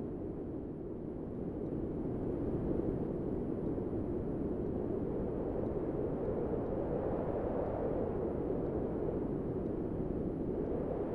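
A steady, low rumbling noise with no distinct events in it, like a dark wind-like ambience.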